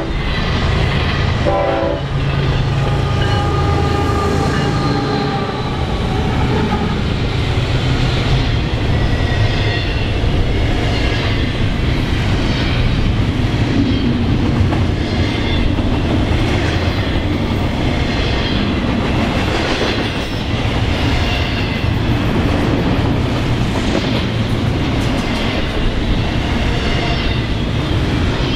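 Double-stack intermodal freight train passing close at speed: a steady rumble of steel wheels on rail with a regular clack about once a second. A train horn gives a short blast about two seconds in.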